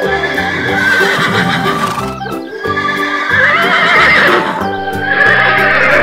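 Horse whinnies, three quavering neighs one after another, laid over background music with a steady beat.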